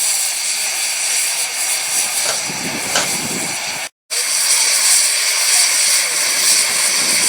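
Steady loud hiss of escaping steam from a steam locomotive of the Romney, Hythe and Dymchurch Railway, with faint voices underneath. The sound cuts out briefly about four seconds in.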